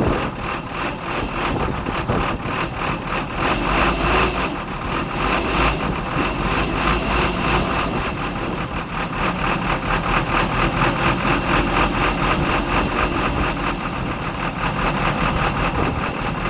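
2012 IC RE school bus's diesel engine idling cold after a cold start at about 15 degrees, having sat for a week: a steady, rhythmic clatter.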